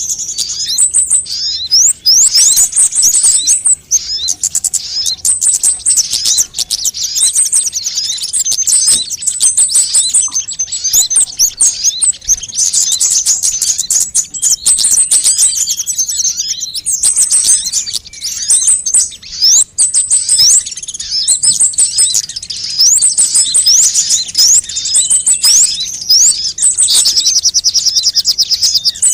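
Sunbirds singing and calling: a dense, unbroken run of very high, thin chirps, fast trills and quick sweeping notes, many overlapping.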